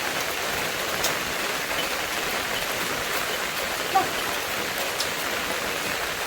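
Steady rain falling: an even hiss with a few faint drop ticks. There is one short, sharper sound about four seconds in.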